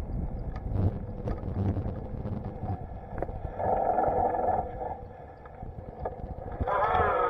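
A bicycle rolling along a trail: a steady low rumble of tyres and wind on the microphone, with scattered clicks and rattles. A short pitched sound with several tones comes about halfway through, and a wavering one starts near the end.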